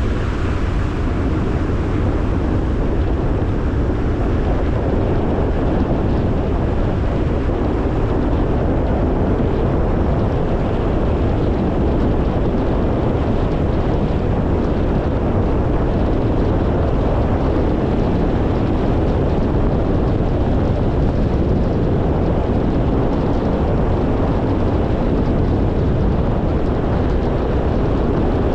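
A car driving at a steady speed: continuous road and wind noise, deep and even throughout, with no change in pace.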